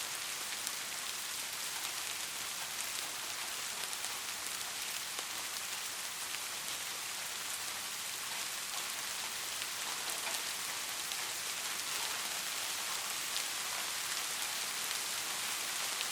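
Steady rainfall with scattered individual drops ticking on a surface, an even hiss without thunder.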